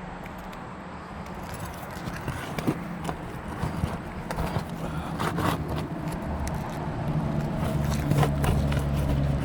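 Asphalt shingles being pried up: scraping and sharp clicks as the nails pop through the brittle shingles. Under it runs a steady low engine hum that grows louder toward the end.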